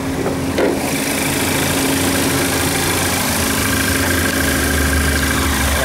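Volkswagen Beetle's 1.4-litre turbocharged and supercharged TSI engine idling steadily. Two clicks near the start come as the bonnet is unlatched and raised, after which the engine is heard more fully with a steady hiss.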